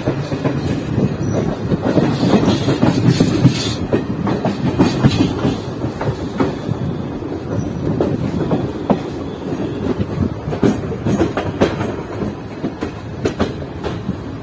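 Passenger train coach running on the track, heard from on board: a steady rumble of wheels on rails, with irregular clicks and clatter as the wheels cross rail joints and points.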